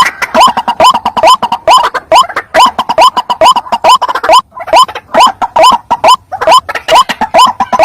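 White-breasted waterhen calls played as a trapping lure: very loud, short upward-sliding croaks repeated rapidly, about three a second.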